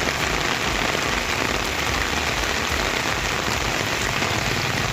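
Rain falling steadily, a dense even hiss of drops on the ground and on pooled water.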